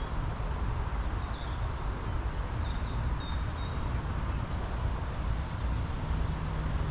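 Small birds chirping in short high notes, several times, over a steady low rumble.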